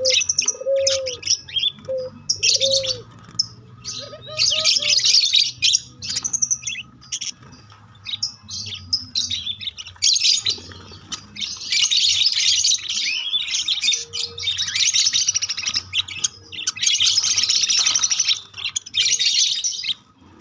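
Small birds chirping and twittering in dense, high-pitched runs, with a few low, arched calls in the first five seconds.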